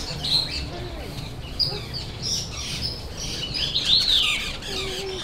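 Several birds chirping and calling, short high chirps overlapping one another, with one louder call that falls in pitch about four seconds in.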